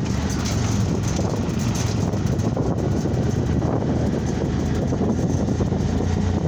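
Steady low rumble of wind and road noise from a moving vehicle, with wind buffeting the microphone.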